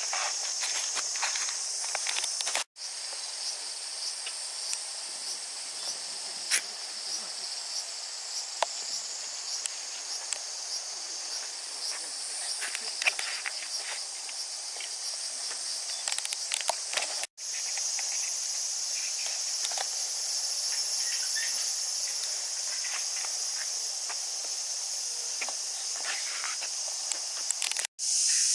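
Summer cicada chorus: a dense, steady, high-pitched shrilling, with scattered light ticks and taps over it. The sound drops out for an instant three times, at the joins between clips.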